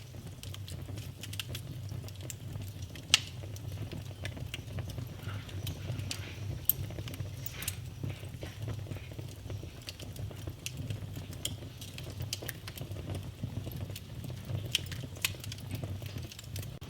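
Wood fire burning in a fireplace: a steady low rumble of flame under frequent crackles, with sharp pops about three seconds in and again near seven seconds.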